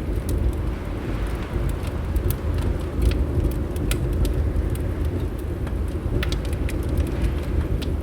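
Fireplace crackling, with scattered sharp pops and snaps over a steady low rumble.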